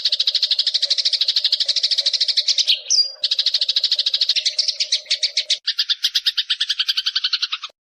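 Songbird 'mastering' recording of rapid, buzzy bird trills, about a dozen notes a second, with a short rising whistle about three seconds in. Near the end the trill changes to a lower, two-pitched rattle that stops abruptly.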